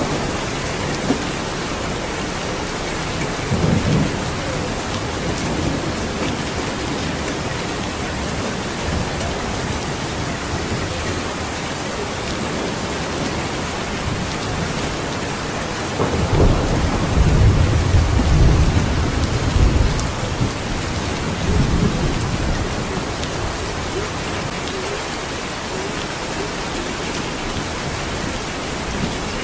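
Steady rain falling, with thunder rumbling: a short rumble about four seconds in and a longer, louder roll of thunder around the middle that dies away over several seconds.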